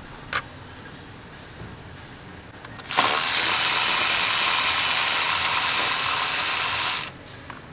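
Cordless power tool, such as an electric ratchet or drill-driver, spinning a fastener for about four seconds in one steady run. It starts and stops abruptly, with no hammering. A small click comes shortly before it.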